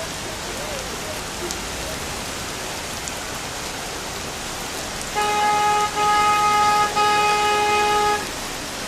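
Heavy rain falling steadily, with a car horn honking three times in quick succession starting about five seconds in, the honks lasting about three seconds in all.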